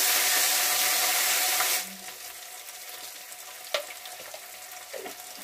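Tomato, ginger-cumin paste and whole spices sizzling in hot oil in a metal kadai as a spatula stirs them. About two seconds in the sizzle drops suddenly to a quieter level, and a single sharp click comes near the middle.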